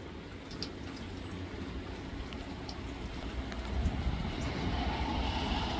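Steady rain with drops dripping close by. From about four seconds in, a vehicle approaches, its rumble and hiss growing louder toward the end.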